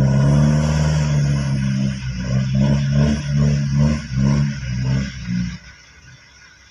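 Vehicle engine running loud at a steady pitch, then surging in quick pulses about three times a second before dropping away near the end.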